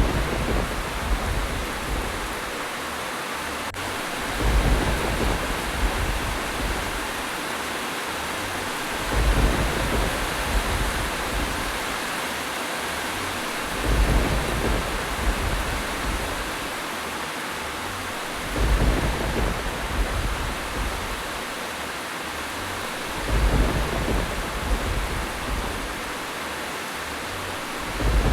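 Steady rain with low thunder rumbles swelling every four to five seconds at very even intervals, each lasting about a second.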